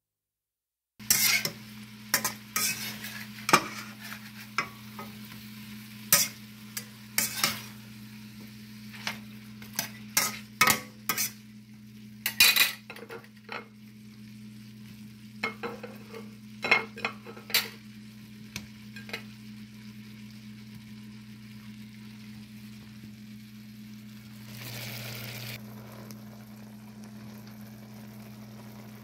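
Shrimp, red bell pepper and onion frying in butter in a metal wok, stirred with a metal spatula. There is a light sizzle, with sharp clicks and scrapes of the spatula against the pan that come thick in the first dozen seconds and sparse after that, all over a steady low hum.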